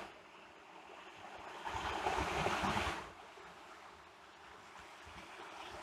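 Sea surf breaking in the distance, a soft wash of noise that swells and fades once about two seconds in.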